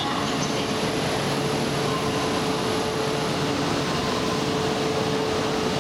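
E4 series Max Shinkansen standing at the platform after its arrival, giving a steady hum and rush with a held mid-pitched tone. A thin high whine stops a little past halfway.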